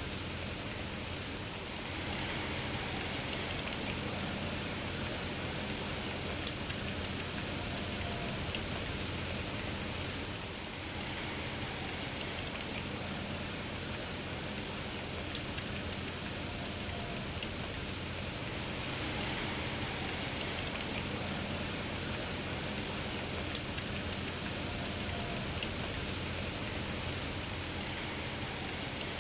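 Steady rain falling, an even hiss of drops. Three times a single sharp, louder drop hit stands out above the rain.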